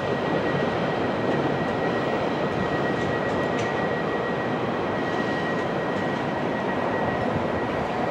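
Steady drone of a train running nearby, with a thin, steady high whine.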